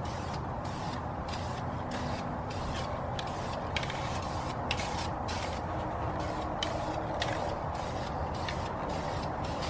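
Aerosol can of primer spraying in a rapid series of short hissing bursts, about two a second: light dusting passes of a first, not-full-coverage coat on aluminium wheels.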